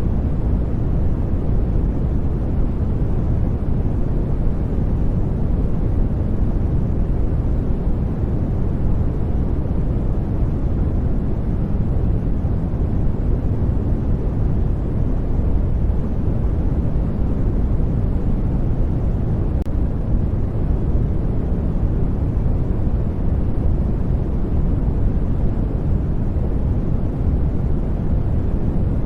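Steady noise track for studying: an even, unchanging rush, deep and full at the bottom with little high hiss, like a low rumble rather than a bright hiss.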